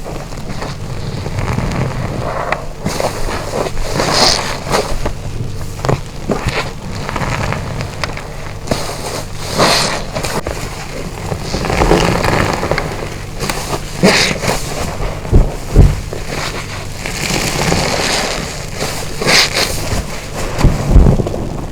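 Wet car wash sponge being squeezed and rinsed again and again: repeated squelching and water splashing, with a few sharp low thumps.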